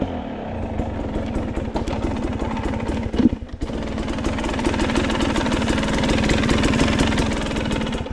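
Off-road motorcycle engine running on a trail ride. The throttle drops briefly about three and a half seconds in, then the engine builds steadily.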